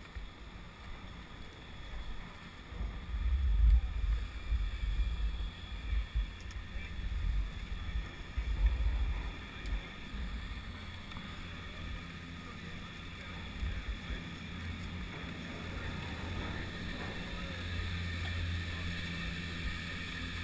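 Wind buffeting the microphone in irregular gusts, heaviest a few seconds in and again near the end, over a steady faint higher hum.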